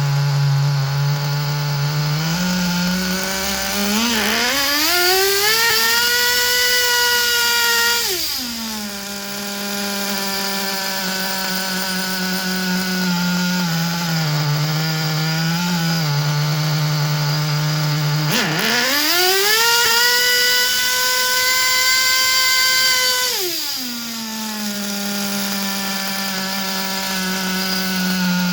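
Kyosho V-One R RC touring car's OS Engines 12CVR two-stroke nitro engine idling, then revved up to a high, held whine twice, each time for about four or five seconds before dropping back to idle.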